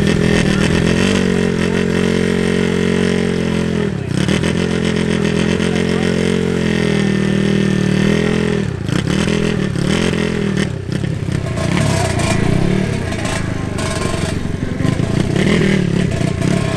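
Drag-racing motorcycles, a two-stroke Yamaha RX 100 and an AKT NKD, held at high revs with a steady pitch that briefly drops about four and eight seconds in, then blipped up and down several times.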